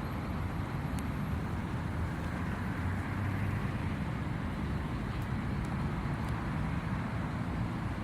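Boeing 777-300ER's GE90-115B jet engine running steadily after start: an even low rumble under a broad hiss, with no change in pitch.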